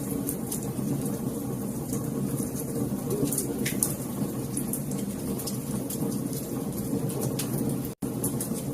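Wood fire crackling, with irregular sharp pops over a steady low rumble of burning. The sound drops out for an instant near the end.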